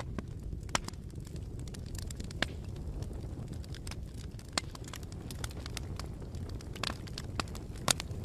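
Bonfire burning: a steady low rumble of flames with sharp, irregular pops and crackles, the loudest pop near the end.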